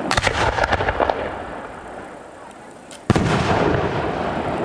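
Fireworks display: a quick run of crackling bangs in the first second that fades away, then a single loud shell burst about three seconds in, with a long rumbling echo.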